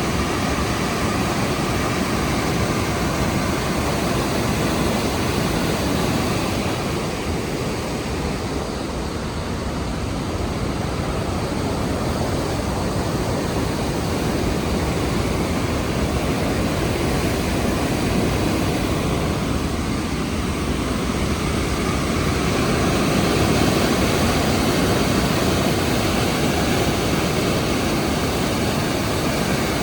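Rhine Falls' roar: a steady rush of falling water, swelling slightly about three-quarters of the way through.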